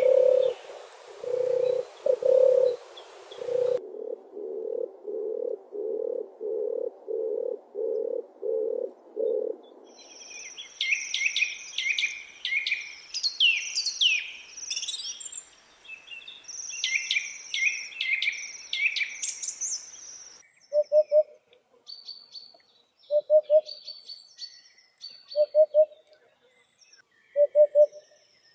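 Several different birds singing in a string of spliced recordings: first a bird's low notes repeated in a steady series that speeds up a few seconds in, then a songbird's quick, varied high-pitched song, then spaced low notes every two seconds or so with high chirps between.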